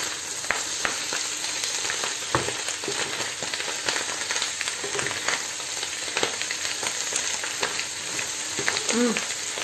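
Fried potatoes and chanterelle mushrooms sizzling in a frying pan, with a wooden spatula scraping and knocking against the pan as the mix is stirred.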